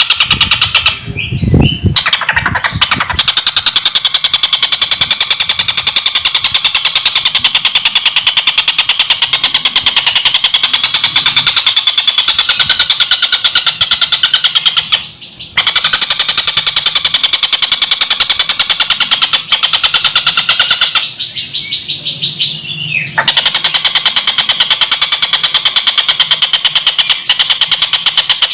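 Tengkek buto kingfisher cackling in a fast, dense, continuous rattle. It breaks off briefly near the start, about halfway through and again about three-quarters of the way through.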